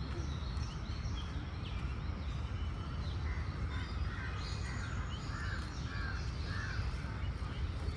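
Birds calling: a run of about five short, evenly spaced caws in the second half, with higher chirps earlier, over a steady low rumble.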